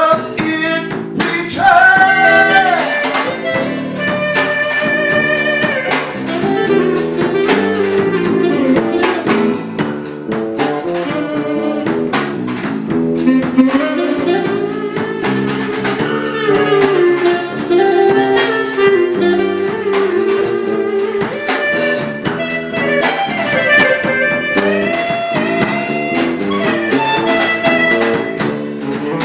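Live jazz band playing an instrumental passage: a lead melody line over chords and drums.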